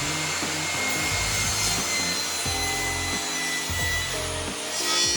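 Table saw running and cutting through a wooden board, a steady whirring hiss with a thin high whine, brightening briefly near the end. Background music with a stepping bass line plays under it.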